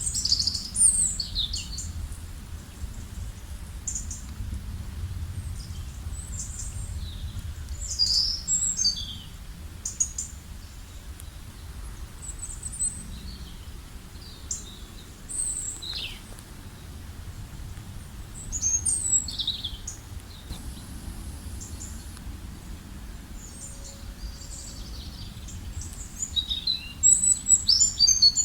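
Several songbirds chirping and singing in short high phrases and quick falling whistles, with a busier flurry of calls near the end, over a steady low outdoor rumble.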